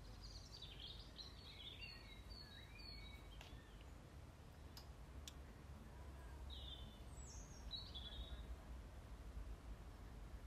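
Faint outdoor birdsong: a few birds chirping and twittering in short spells, near the start and again after about six seconds, over a low steady rumble.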